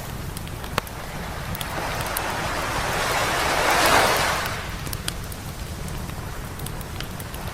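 A wave breaking and washing up the beach, swelling to a peak about four seconds in and then fading, over a bonfire crackling with scattered sharp pops, one loud pop about a second in.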